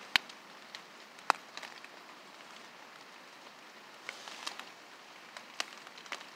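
Rain falling steadily, with a scatter of sharp drip-like ticks, two loud ones within the first second and a half.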